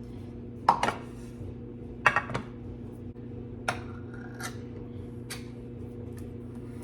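Kitchen dishes and containers being handled on a counter: about half a dozen separate sharp knocks and clinks, over a steady low hum.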